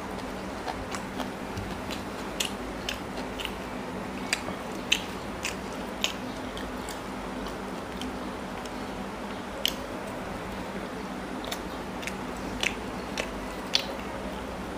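Close-up chewing and wet mouth smacks of someone eating porota (flatbread) with chicken curry, with a scattering of sharp clicks at irregular intervals over a steady low hum.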